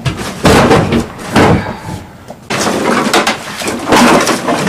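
Several loud knocks or bangs in quick succession, then a few seconds of noise without a clear pitch.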